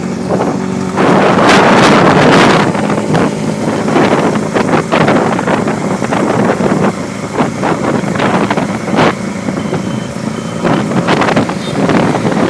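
Motorbike riding in traffic: the engine's hum under heavy, gusty wind buffeting on the microphone.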